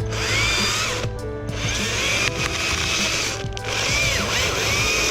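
Battery-powered Stihl MSA 161 T top-handle chainsaw cutting through a Douglas fir limb in three bursts of throttle, its whine dipping and rising in pitch as the chain loads up in the wood. Short pauses come about a second in and about three and a half seconds in.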